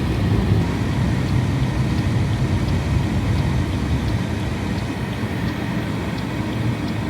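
Heavy thunderstorm rain pouring down, a steady dense rush with faint ticks of drops.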